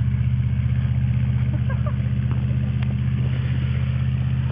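Truck engine running steadily at an even idle, with a regular pulsing beat and no change in pitch. A faint click comes a little under three seconds in.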